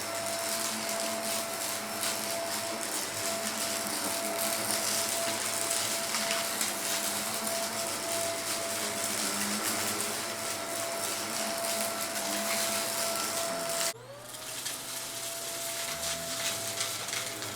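Vacuum cleaner running steadily with a constant high motor whine and scattered ticks and crackles. Near the end the motor drops out abruptly and spins back up, its whine rising back to pitch.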